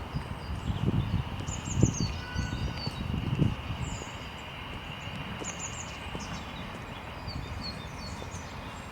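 Small birds chirping outdoors in short, high, falling calls over a steady background hiss, with a few low thuds in the first few seconds.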